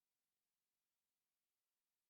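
Near silence: a faint, even background hiss with no other sound.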